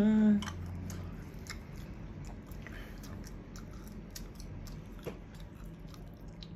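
A person chewing a mouthful of food close to the microphone, with small wet mouth clicks scattered throughout, after a short hummed "mm" right at the start.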